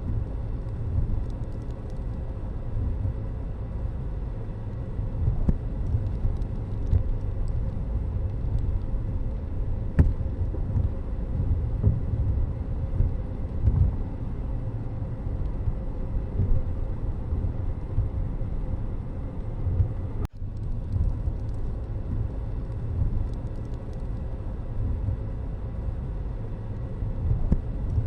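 Low, steady rumble of road vehicles, with a brief dropout about twenty seconds in.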